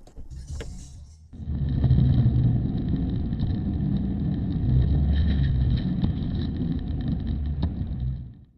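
A car running on the road: a steady, low-heavy rumble of engine and road noise. It starts suddenly a little over a second in and cuts off abruptly near the end.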